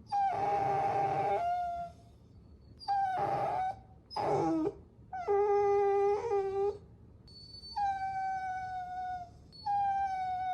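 Puppy whining: a string of about six high, drawn-out whines, each lasting a second or so with short pauses between, several sliding slightly down in pitch at the end.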